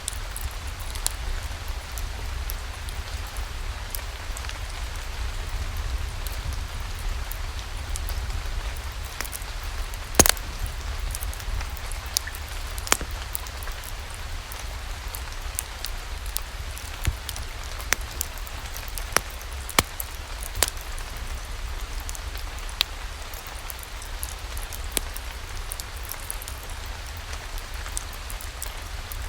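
Steady rain falling, mixed with a wood fire crackling in a fireplace: irregular sharp pops over the hiss, the loudest about ten seconds in.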